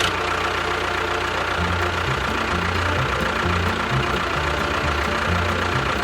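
Small motor of a DIY miniature model bulldozer running steadily with a continuous whirring whine, over the bass notes of background music.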